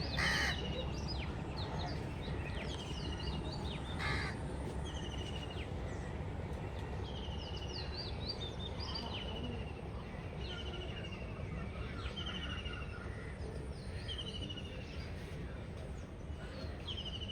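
A bird repeating a short, buzzy call about every two to three seconds, with fainter higher chirps from other birds, over a steady low rumble.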